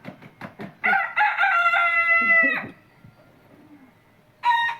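Rooster crowing: one long high crow about a second in, with a second crow starting near the end.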